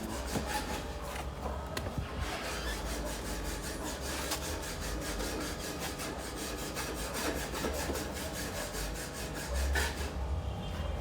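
Rapid, evenly repeated rasping or scraping strokes of hand-tool work, several a second, over a low steady hum.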